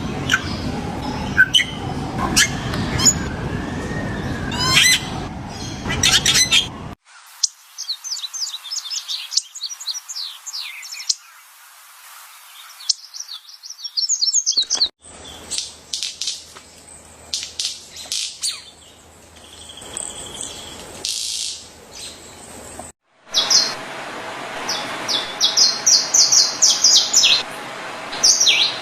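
Birds chirping and calling in several short clips that change abruptly every seven or eight seconds, each with a different mix of high chirps and call notes. The first clip has a loud noisy background under the calls, and the last has fast runs of high chirps.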